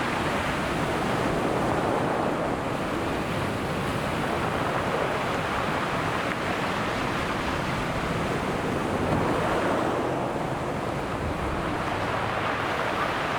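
Ocean surf breaking and washing on the shore, a continuous rushing noise that swells and eases as waves come in.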